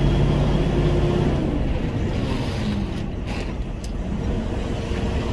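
Semi-truck tractor's diesel engine running, heard from inside the cab. Its steady drone fades about a second and a half in, leaving a rough low rumble, and the steady note returns near the end.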